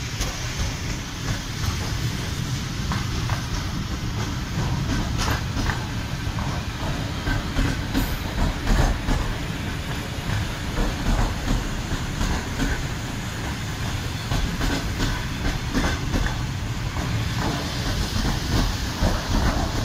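Electric commuter train passing close by: a steady low rumble with the wheels clattering irregularly over rail joints.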